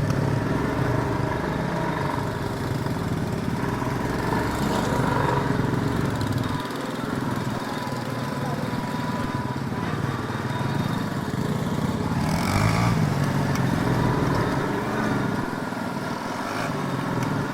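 Small off-road vehicle engine running under varying throttle, with the revs rising and falling and a burst of revving about twelve seconds in.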